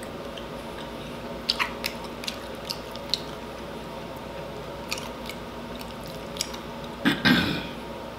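Close-miked mukbang eating sounds: wet mouth smacks and chewing as saucy food is eaten by hand, heard as scattered short clicks, with a louder, longer smack about seven seconds in.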